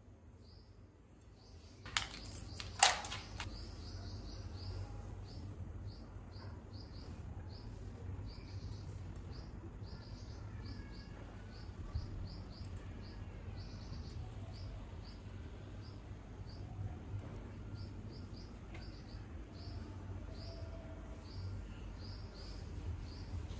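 A small bird chirping over and over, short high chirps at an uneven pace of about one to two a second, over a steady low hum. Two sharp knocks about two and three seconds in are the loudest sounds.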